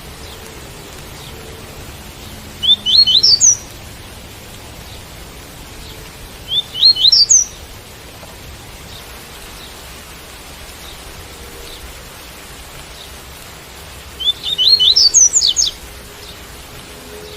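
Double-collared seedeater (coleiro) singing the tui-tui song type: three short phrases of quick rising notes, the last one longest, over a steady hiss of rain.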